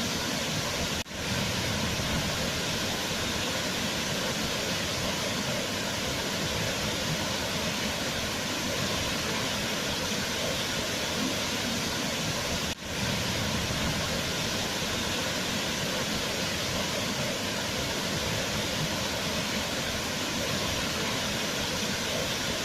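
Waterfall rushing steadily, an even roar of falling water that dips for an instant twice.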